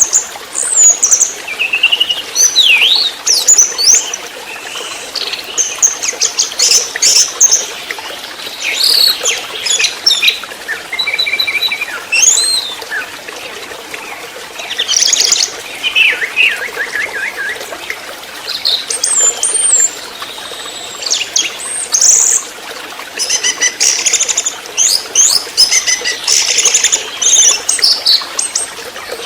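Young orange-headed thrush singing: a varied, rapid song of high whistles, slurred notes and trills, delivered in bursts with short pauses between phrases.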